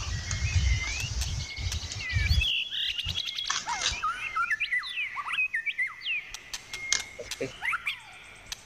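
Small birds chirping, a run of quick whistled notes rising and falling from about two and a half seconds in. Before that there is a low rumble that stops suddenly.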